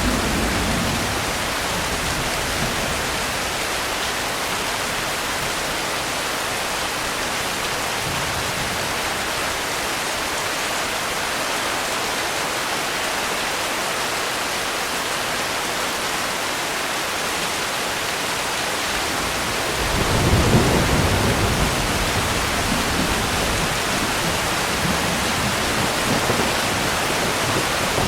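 Steady heavy rain falling, with a low roll of thunder fading in the first second and a louder thunder rumble breaking in about twenty seconds in and rolling on to the end.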